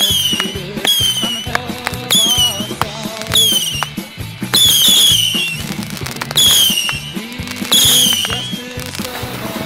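A fireworks cake firing a series of whistling shots: about eight sharp pops roughly a second apart, each followed by a short whistle that falls in pitch.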